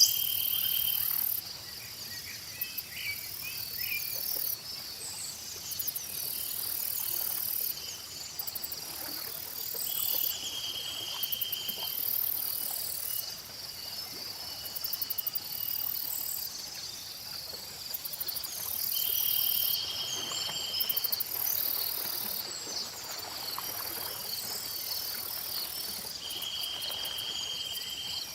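A continuous chorus of insects chirping, with pulsed high buzzing coming and going. A steady trill about two seconds long recurs three times over it, and birds chirp here and there.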